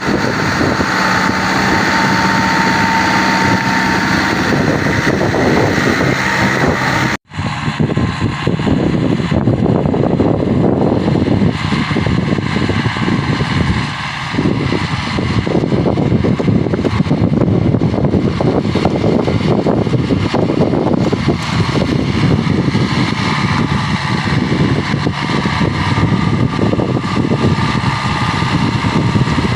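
New Holland TD75D tractor's diesel engine running steadily. The sound drops out briefly about seven seconds in and comes back denser and rougher.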